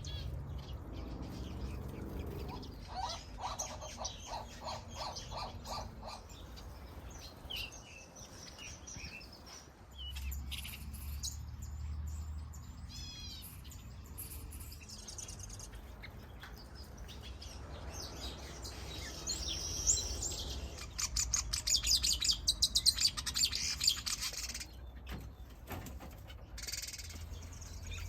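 A mix of aviary finches chirping and calling, several birds at once, with short phrases and single notes overlapping. About twenty seconds in, a fast run of loud, rapidly repeated chirps stands out above the rest.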